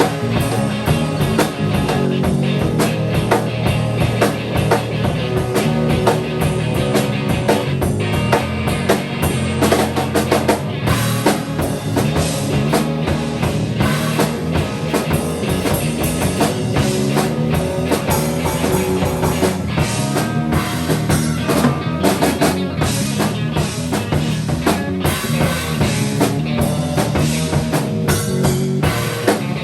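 A band improvising live on drum kit and guitar, the drums playing busily without a break throughout.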